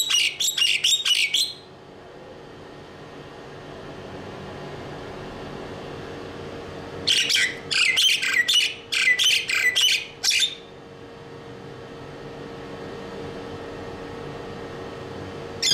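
A bird calling in quick runs of short, high squawking notes, in two bursts: one at the start and a longer one about seven seconds in. A faint steady hum lies underneath.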